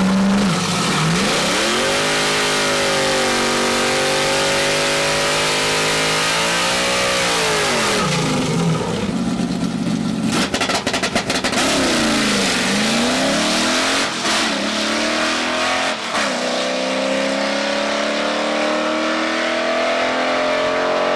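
Drag race car engine revving hard: it climbs and holds high revs for several seconds, drops away, crackles roughly for a moment in the middle, dips and rises again, then pulls steadily higher near the end.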